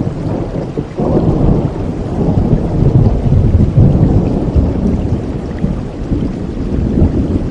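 Thunder rumbling over steady rain: a deep rumble swells suddenly about a second in and rolls on loudly, easing near the end.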